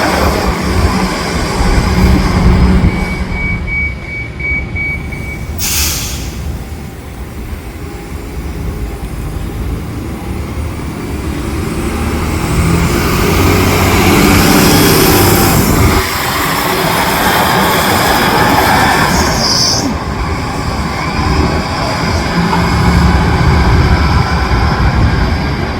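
Cummins ISL9 diesel engine and road noise of a 2015 Gillig Low Floor transit bus at highway speed, heard inside the cabin: a steady heavy rumble that builds and then drops off abruptly about sixteen seconds in, with a sharp click around six seconds in.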